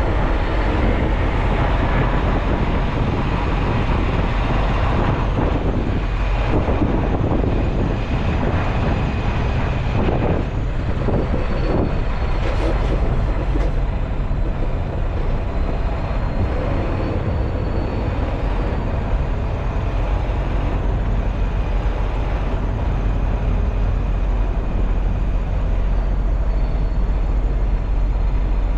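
Steady engine drone and road noise of a semi truck heard from inside the cab, with a deep low rumble and a few short rattles and knocks around the middle.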